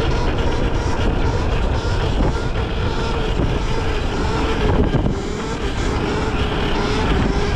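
Dirt bike engine running steadily, its pitch wavering slightly and easing off briefly about five seconds in.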